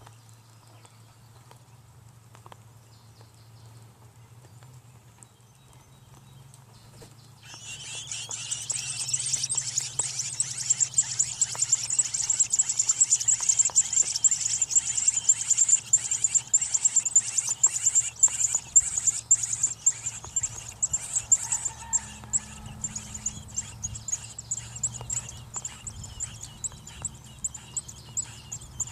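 Nestling American robins peeping together in a fast, high-pitched begging chorus that starts suddenly about seven seconds in and runs on as a dense stream of short peeps. A faint low hum lies underneath.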